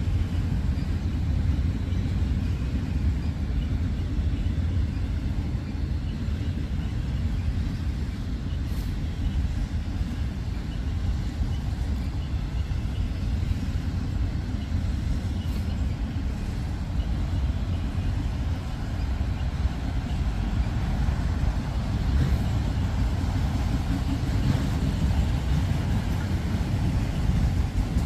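Freight train of enclosed autorack cars rolling past, its steel wheels on the rails giving a steady low rumble.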